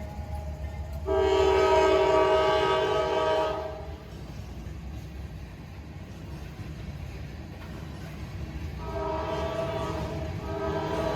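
Freight locomotive horn sounding several notes at once in long blasts: one loud blast about a second in, then after a pause two more blasts separated by a short break near the end. Underneath is the low rumble of the passing train.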